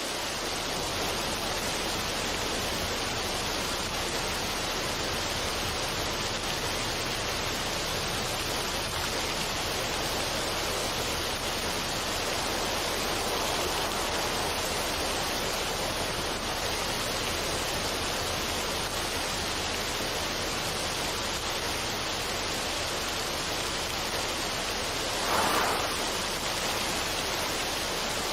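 Steady, even rushing noise of the water-or-rain kind used as a relaxation soundscape, with no music, swelling briefly about 25 seconds in.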